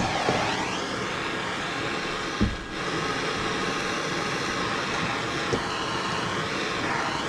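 Handheld gas torch burning with a steady rushing hiss, heating the aluminium cylinder head to free a broken head stud. It dips briefly about two and a half seconds in, with a faint knock or two.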